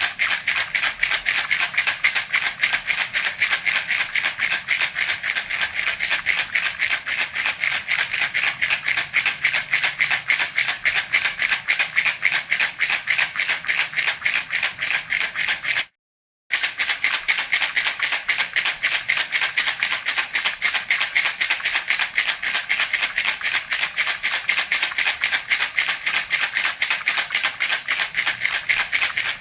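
Baby rattle (jhunjhuna) shaken steadily in a fast, even rhythm, its beads rattling continuously, with a brief cut to total silence about sixteen seconds in.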